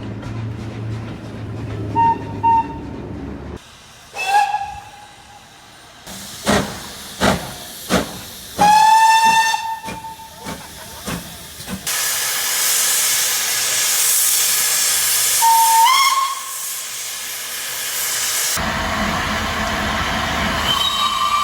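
Steam locomotive whistles in a string of short clips: two quick toots, a single blast, then a long whistle that slides up in pitch as it starts. Sharp exhaust chuffs come just before the long whistle. Near the middle a stretch of loud steam hiss carries a brief rising whistle, and another steady whistle sounds near the end.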